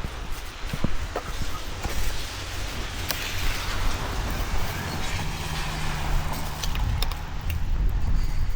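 A vehicle passing on a wet road: its tyre hiss swells and fades over a few seconds over a low engine hum.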